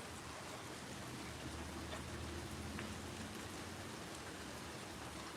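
Rain falling steadily and faintly, with a few separate drips about two to three seconds in; the storm seems to be letting up.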